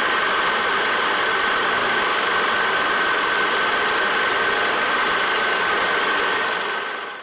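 Vintage motorcycle engine running steadily, fading out near the end.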